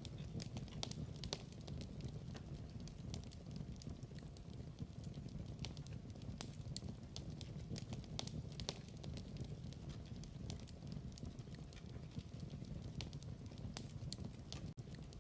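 Wood fire crackling in a fireplace: a steady low rumble of flames with scattered sharp pops and crackles at irregular times, dropping out for an instant near the end.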